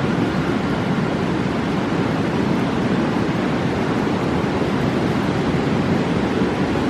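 Fast mountain river rushing, a steady roar of white water with no change in level.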